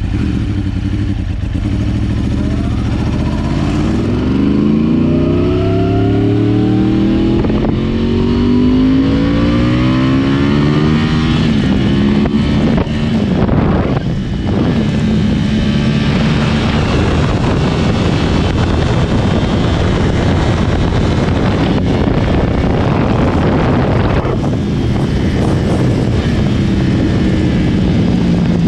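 2010 Yamaha R1's crossplane inline-four, with its uneven big-bang firing order, running loud through a decatted Akrapovic exhaust. The engine pulls with its pitch climbing for several seconds, dips briefly near the middle, then holds a steady note.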